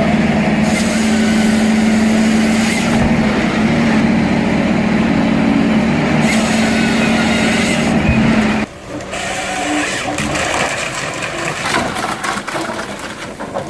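An engine runs loudly at a steady pitch, then cuts off suddenly about two-thirds of the way in. An uneven, rattling machine noise follows.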